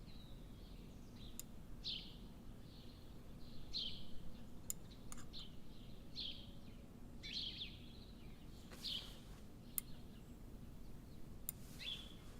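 Faint bird chirping: short calls repeating about every second, with a few light ticks in between.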